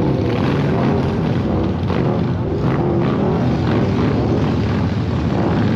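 An engine running with a steady, loud drone.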